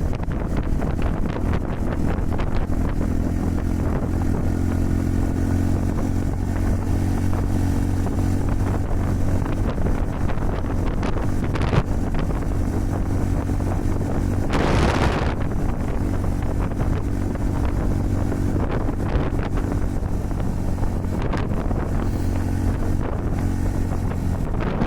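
Honda Super Cub 110's air-cooled single-cylinder four-stroke engine running steadily at cruising speed, with heavy wind buffeting on the microphone from strong wind. A brief loud rushing whoosh about fifteen seconds in.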